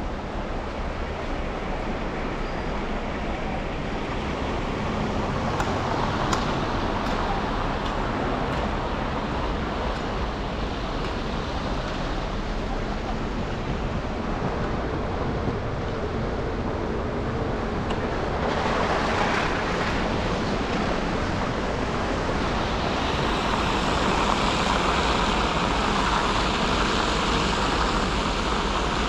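Traffic and tyre noise from a car driving on wet, snow-covered city streets: a steady rushing hiss over a low hum. It swells briefly about two-thirds of the way through and stays brighter and hissier near the end.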